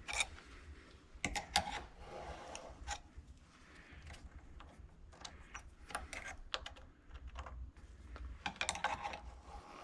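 Irregular light clicks and taps of small metal tools and parts being handled on a workbench, coming in scattered clusters.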